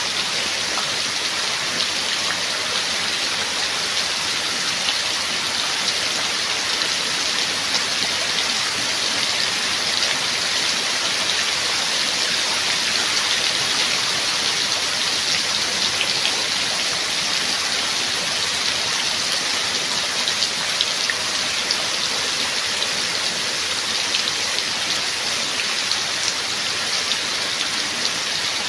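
Steady rain falling: a dense, even hiss of drops with scattered sharper individual drop hits, unchanging throughout.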